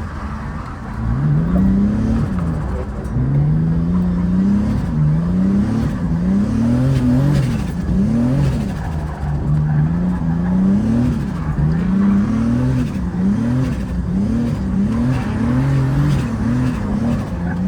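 Turbocharged BMW E30 drift car's engine revving hard, its pitch climbing and dropping back over and over as it is driven round the track.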